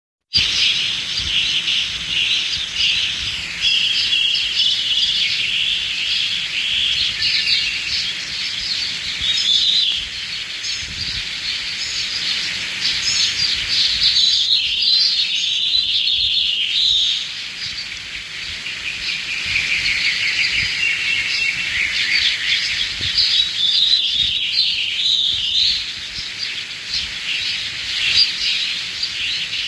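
Many small birds chirping and singing together in a dense, continuous chorus.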